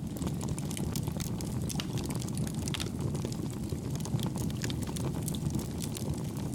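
Wood campfire burning: a steady low rumble of flames with frequent small, irregular crackles and pops.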